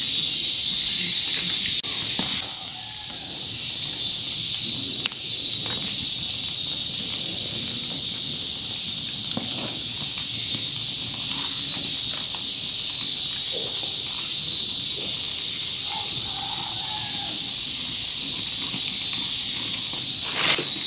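A loud, steady chorus of insects, high-pitched and unbroken, with a few faint clicks beneath it.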